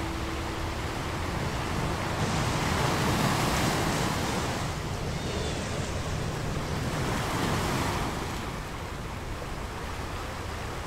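Rushing, surf-like wash of water noise. It swells a couple of seconds in, holds, and ebbs again after about eight seconds.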